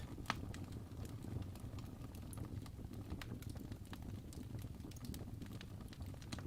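Wood fire burning in a fireplace: a low, steady rumble of flames with scattered crackles and pops from the burning logs, one sharper pop just after the start.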